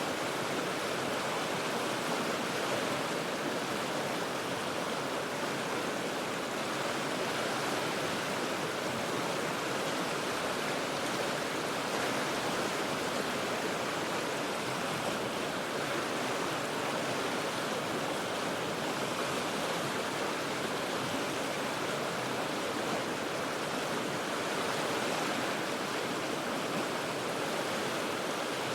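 A river rushing steadily over rocks: an even, unbroken roar of moving water.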